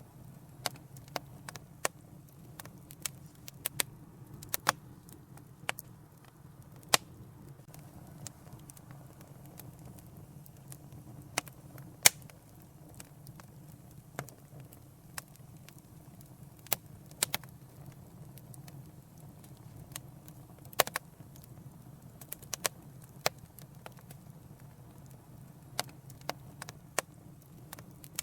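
Wood fire crackling in a fireplace: irregular sharp pops and snaps, sometimes singly and sometimes in quick clusters, over a low steady rumble.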